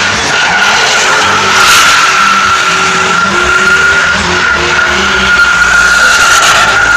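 Truck doing a burnout: tyres squealing in one steady, unbroken high tone over an engine held at high revs, loud throughout.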